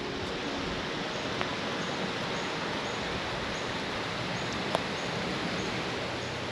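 Steady rain hiss at camp, with a couple of single drips, a small one about a second and a half in and a sharper one near five seconds. Faint short high chirps repeat about twice a second behind it.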